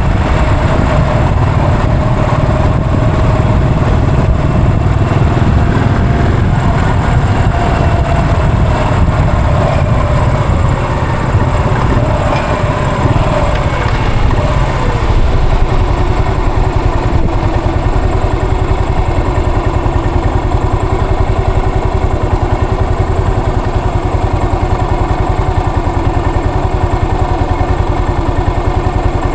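Yamaha SR400's air-cooled single-cylinder four-stroke engine running under way. The engine note slides lower about halfway through, as the bike slows, and then holds steady.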